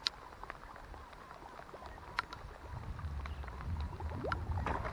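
Water lapping against a camera set at the lake surface, with a low rumble that builds about halfway through and scattered light ticks.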